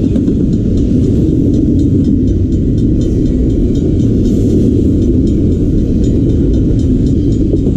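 Intermodal freight train rolling past, a loud steady low rumble of wheels on rail.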